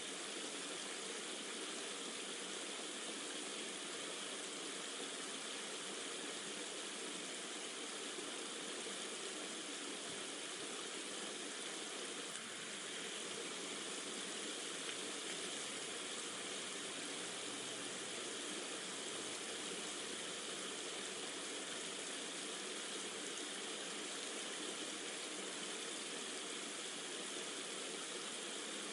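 Steady flowing-water ambience, a stream and rain sound bed, heard as an even, unbroken rushing hiss with no distinct drops or changes.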